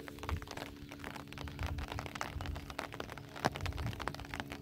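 Rain falling on flooded fields: a dense patter of short, sharp drop ticks, with low rumbling swells and a steady low hum underneath.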